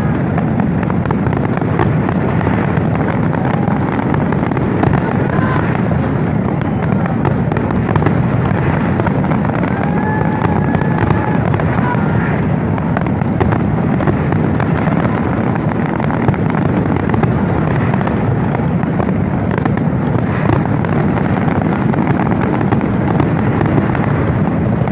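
Fireworks display going off continuously: a dense, steady stream of bangs and crackles, with people's voices among them.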